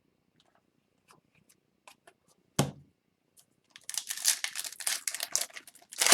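A trading-card pack's wrapper crinkling and tearing as it is handled and opened, in a dense stretch over the second half. Before that come small scattered clicks of cards being handled and a single sharp thump about two and a half seconds in.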